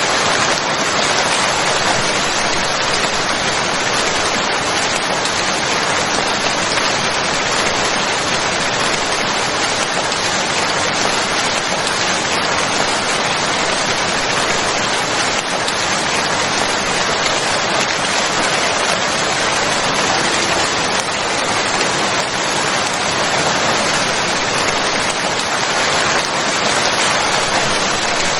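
Steady, dense rain falling and pattering on surfaces, with no breaks or changes.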